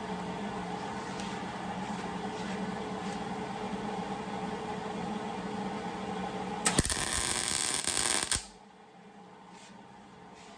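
A steady hum, then about seven seconds in a loud burst of welding-arc crackle lasting under two seconds as the worn grooves in the compressor's flyweight shaft are welded up, after which it drops to a much quieter background.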